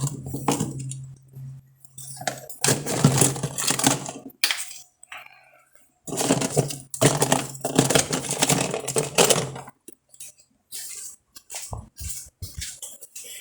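Hard chunks of built-up freezer ice clattering, cracking and clinking in irregular bursts as they are broken loose and handled. A frost build-up like this comes from a failed defrost system. A steady low hum runs underneath and stops about ten seconds in.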